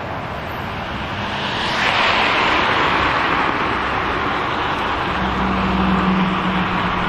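Street traffic: a car goes by, its tyre noise swelling about two seconds in, and a low engine hum joins about five seconds in.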